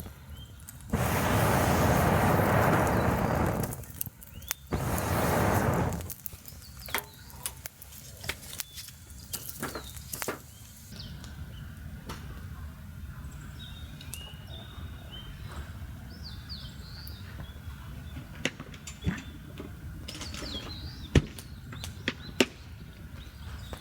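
Two loud bursts of rustling noise in the first six seconds, then scattered sharp clicks and crackles over a quiet outdoor background. Birds chirp briefly now and then.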